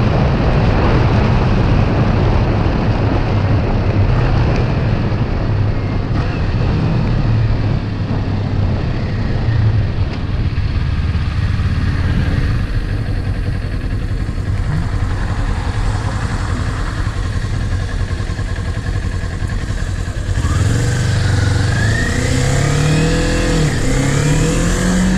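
Kawasaki Ninja 400 parallel-twin engine running under way, mostly buried in wind and road noise. Near the end the bike accelerates: the engine pitch climbs, dips once at a gear change, and climbs again.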